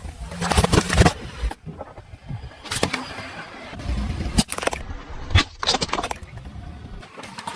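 Objects crunching and cracking under a car's tyres as it rolls over them, in several separate bursts of crushing with a low rumble of the car underneath.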